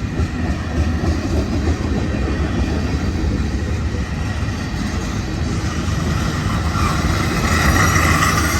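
Freight cars of a Norfolk Southern manifest train rolling past on a downgrade: a steady rumble of steel wheels on rail with some clatter. A higher-pitched sound swells near the end.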